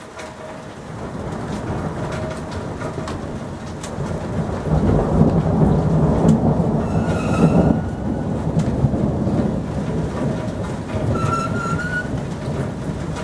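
Thunder from a frontal thunderstorm rolling as a long low rumble, building up and loudest around the middle, with rain falling.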